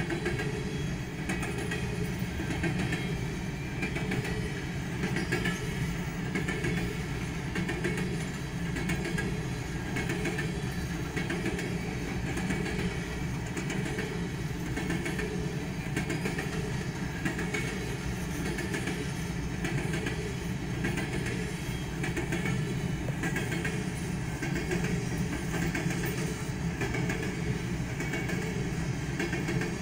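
A BNSF coal train's hopper cars rolling steadily past a grade crossing: a continuous low rumble of wheels on rail with a regular clickety-clack of wheels over rail joints, heard from inside a stopped car.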